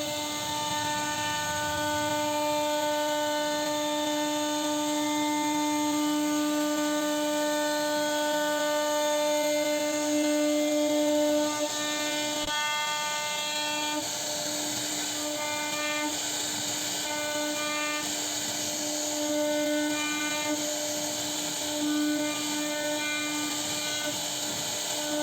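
CNC router spindle running at a steady high speed while carving wood, giving a constant whine with a short break about twelve seconds in.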